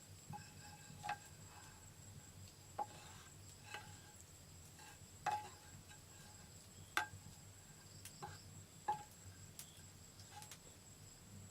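Insects, crickets or similar, keeping up a steady high-pitched drone, with about ten sharp knocks scattered irregularly over it, each with a short ring.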